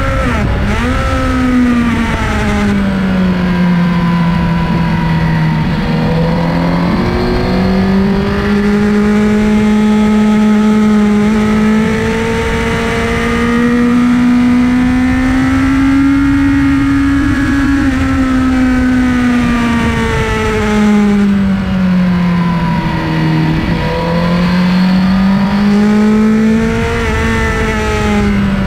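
Honda sports bike's engine on track, heard from onboard: a continuous rising and falling note as it pulls hard out of corners, dipping in pitch with each shift and under braking, over a steady rush of wind.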